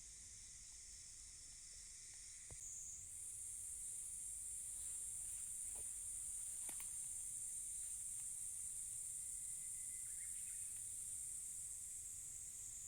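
Summer insects shrilling steadily at a high pitch; about two and a half seconds in, a higher, louder insect song takes over. A couple of faint clicks.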